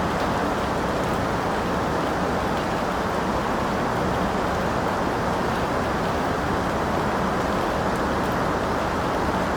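Steady rain, an even rushing hiss with faint scattered drop ticks in the upper range.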